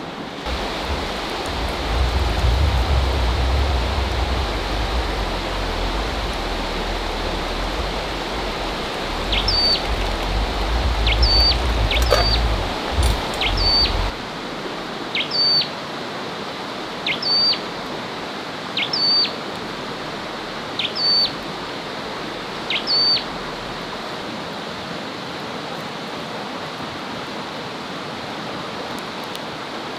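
A bird repeating a short, sharp high call about every two seconds, nine times in a row, over a steady rushing background noise. A low rumble runs through the first half and stops abruptly.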